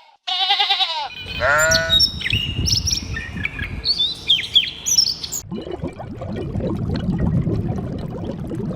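Bleating: a short wavering call just after the start and a falling one about a second later, then birds chirping in short high notes for a few seconds, giving way to a low rumbling noise.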